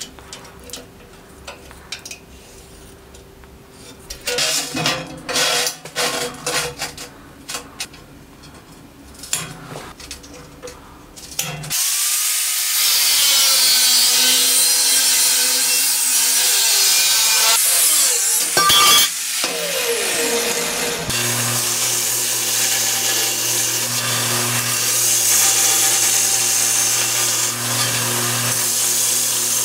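After about twelve quieter seconds of light clicks and scrapes, an angle grinder with a cut-off wheel cuts into steel plate with a loud, steady grinding. About nine seconds later this gives way to a belt grinder running with a steady low hum as a steel piece is ground on the belt.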